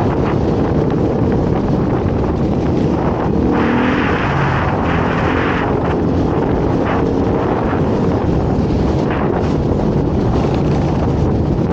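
Dirt bike engine running while riding, with heavy wind rushing over the microphone. The engine note rises and shifts about four seconds in.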